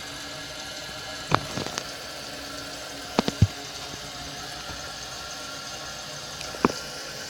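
Kohler Wellworth toilet tank refilling after a flush, water hissing steadily through the fill valve. Several sharp knocks and clicks cut in, about a second in, three close together around three seconds, and once near the end.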